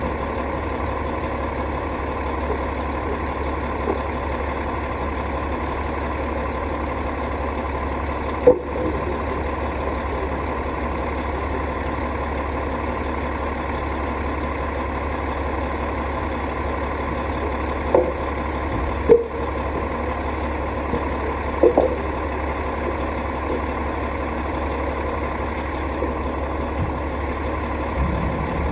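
Rooftop HVAC unit running: a steady mechanical drone with a strong low hum and a few short knocks or clicks.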